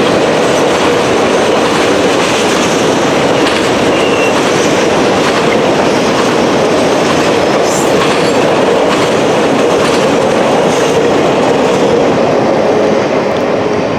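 Freight train cars rolling past at close range: a steady, loud rumble of steel wheels on rail with scattered clicks over the rail joints, easing off slightly near the end.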